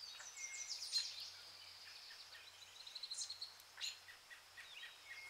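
Songbirds chirping and trilling over a faint, steady outdoor hiss: a sharp chirp about a second in, a quick run of repeated notes a little past the middle, and another sharp chirp near four seconds.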